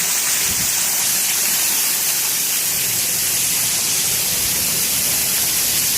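Heavy rain pouring down in a summer downpour, a steady dense hiss.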